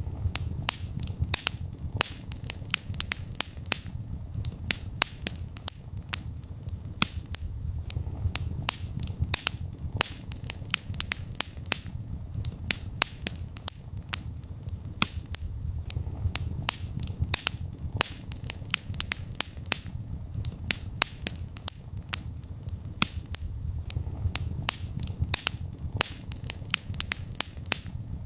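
Wood fire burning in a fireplace: many sharp crackles and pops, several a second, over a steady low rumble of the flames.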